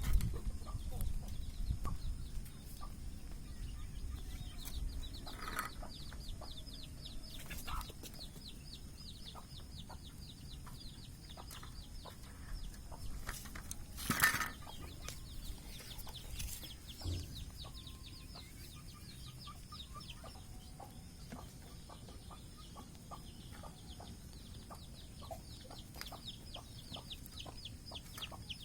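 Parrots calling: a constant stream of fast, high chirps with a few louder squawks, the loudest about halfway through.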